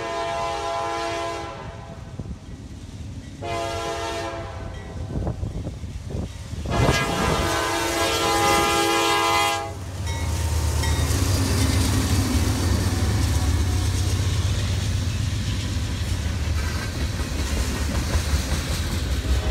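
Norfolk Southern GE Dash-9 diesel locomotives sounding the horn for a grade crossing: one blast ends about a second and a half in, a short blast follows, then a long blast of about three seconds. When the horn stops, the locomotives' diesel engines rumble by, and freight cars keep rolling and clattering past.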